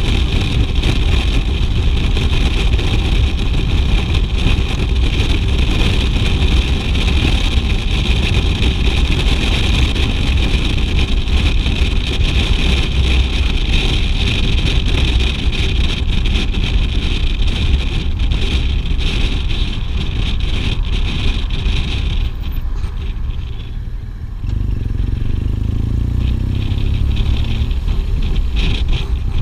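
BMW R 1200 GS boxer-twin motorcycle on the move, a steady loud rumble with rushing noise over it. About 22 seconds in the rushing fades, the level dips briefly, and the engine's note comes through more plainly, as when the bike slows.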